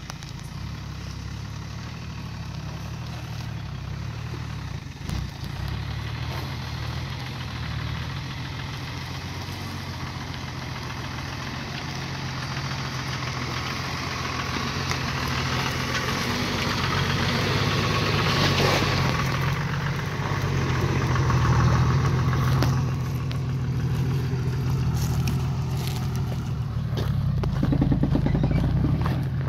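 A 4x4's engine running at low revs as the vehicle crawls up a rough, rocky track. The steady low hum grows somewhat louder through the second half.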